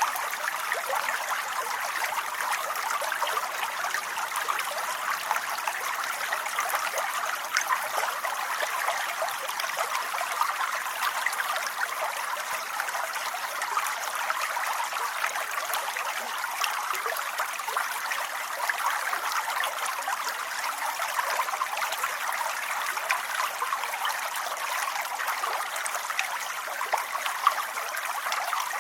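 Steady rain: an even hiss of many small drops, with scattered louder drop ticks and no change in strength.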